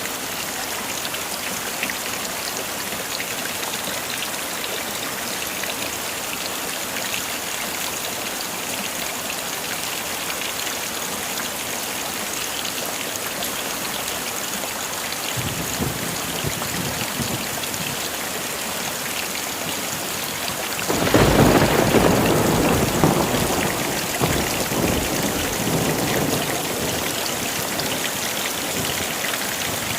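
Heavy rain falling steadily with an even hiss. Thunder rumbles faintly about halfway through, then a louder clap of thunder breaks in about two-thirds of the way through and rolls away over several seconds.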